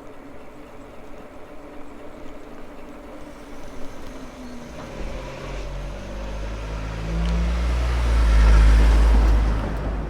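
A motor vehicle approaches and passes close by: engine and tyre noise swell to a peak shortly before the end, then ease off. Before it, a steady whine is heard, typical of the e-bike's hub motor while riding.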